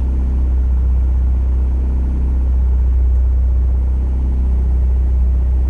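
H22-swapped Honda Civic idling steadily in neutral, a deep even drone with no change in speed.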